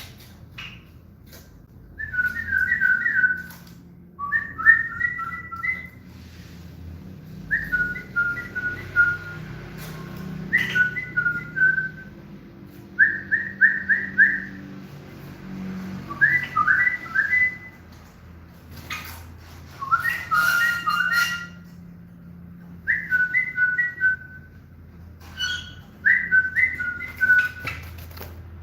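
Common bulbul singing: about nine short, quick phrases of clear whistled notes, each phrase a second or two long and repeated every few seconds.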